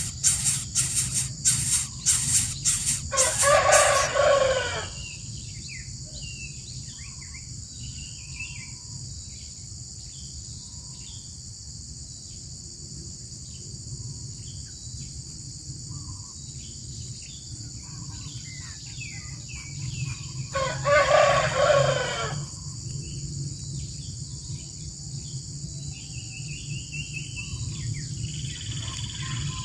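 A rooster crows twice, once about 3 s in and again about 21 s in, each crow lasting about two seconds. Faint scattered bird chirps and a steady high insect buzz run underneath.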